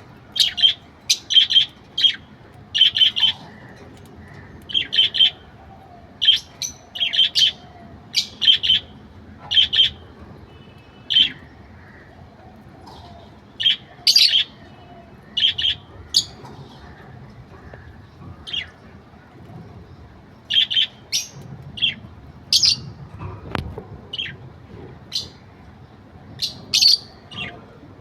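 Budgerigar chattering: a long run of short, sharp chirps in irregular clusters.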